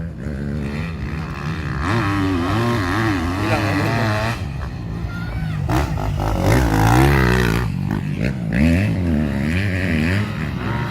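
Racing motorcycle engines revving, their pitch rising and falling over and over.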